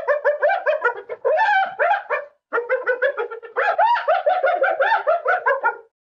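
Rapid, repeated short animal calls, several a second, with a brief pause about two and a half seconds in, stopping near the end.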